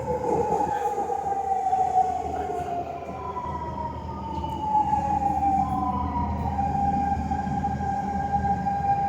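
SMRT C651 train's GTO-VVVF traction inverter whining, a siren-like tone with overtones gliding slowly down in pitch, then a new tone about five seconds in that settles steady, over a low rumble of the running train.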